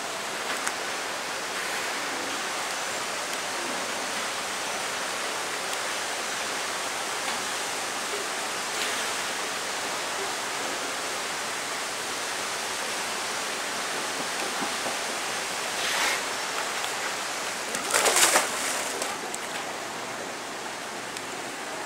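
Steady rushing of flowing water, as from a waterfall or water feature, with two short louder surges of noise near the end.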